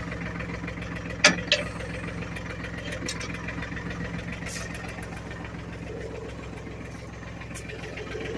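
Ford 1720 compact tractor's three-cylinder diesel engine idling steadily, with a sharp clank about a second in and a lighter one just after.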